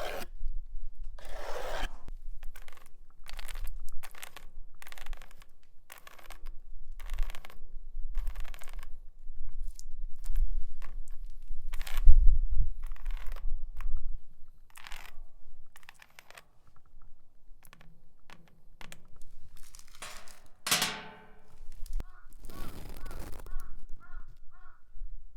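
Metal nails worn on the fingertips scratching over a tyre in repeated separate strokes, one every second or so, with one longer, louder stroke near the end. Then scratching on straw.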